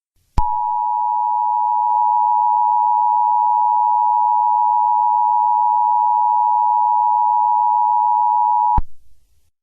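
Emergency Alert System attention signal: a loud, steady two-tone alarm of 853 Hz and 960 Hz sounded together. It starts about half a second in, holds unchanged for about eight seconds and cuts off sharply. It marks the start of an alert, just before the spoken message.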